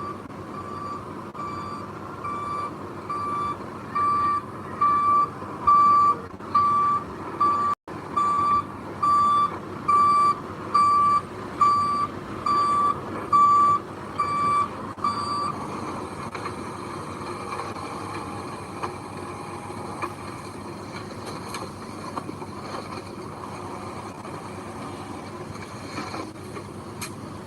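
A heavy construction vehicle's reversing alarm beeping about once a second, a single steady pitch, stopping a little past halfway, over the steady running of a diesel engine that carries on alone afterwards.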